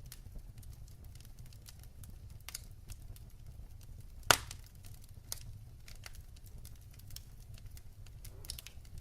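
Wood fire crackling in a fireplace: many small ticks and snaps over a low steady rumble, with one sharp loud pop a little over four seconds in and a smaller pop about a second later.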